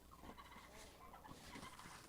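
Near silence, with faint poultry calls in the background.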